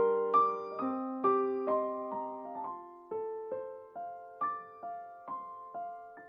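Background piano music: a gentle melody of single struck notes, about two a second, slowly getting softer toward the end.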